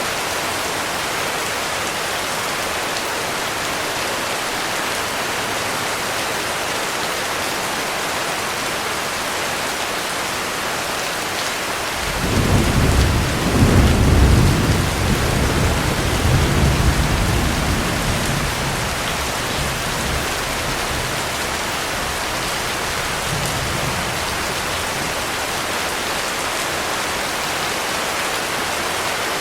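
Heavy rain falling steadily, with a roll of thunder about twelve seconds in: a deep rumble that swells for a few seconds and fades away, with a faint further rumble some seconds later.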